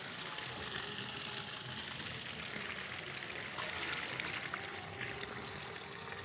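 Water flowing in a steady, even stream.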